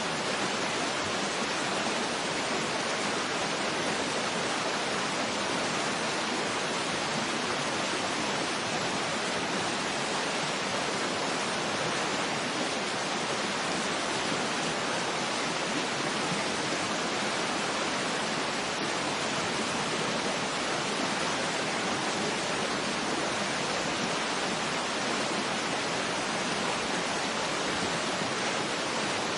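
Waterfall: a steady, even rush of falling water with no pauses or distinct splashes.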